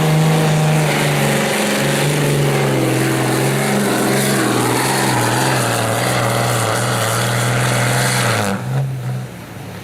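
2002 Dodge Ram's Cummins diesel engine running at high, steady revs under full load while pulling a sled. The pitch dips slightly about a second in and then holds. Near the end the engine lets off and the sound falls away sharply.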